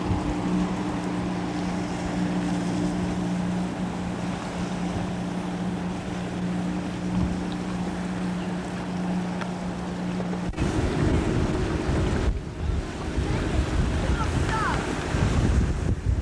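Wind noise on the microphone and water rushing past a small boat under way, with a steady low hum that cuts off suddenly about ten seconds in; after that the wind and water turn rougher and gustier.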